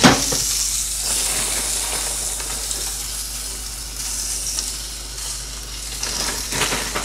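Food frying in a hot pan on a hob: a steady sizzling hiss, with a knock right at the start.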